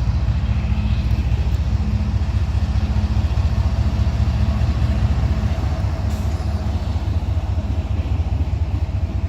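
Freight train passing close by on the railroad track: a loud, steady rumble that runs on without a break.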